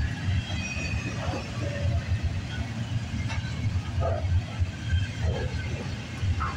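Double-stack intermodal well cars rolling past: a steady low rumble of wheels on rail, with faint high-pitched wheel squeals and a few clicks of wheels over rail joints.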